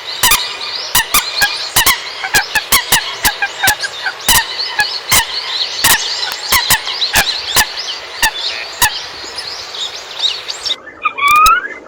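A flock of common coots calling together: a dense chatter of sharp clicking notes and short squeaky calls. Near the end it changes to a clearer call with rising, squealing notes.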